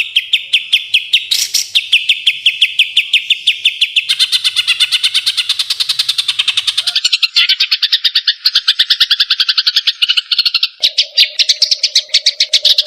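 White-rumped shama (murai batu) singing: fast runs of rapidly repeated notes, about nine a second, with the phrase shifting in pitch every few seconds. A low steady tone comes in near the end.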